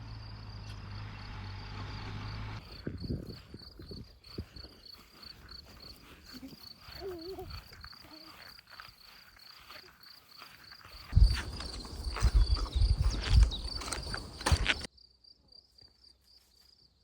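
Crickets chirping steadily: a high pulse repeating about three or four times a second. About eleven seconds in comes a louder stretch of rustling and thumps, which stops suddenly about four seconds later.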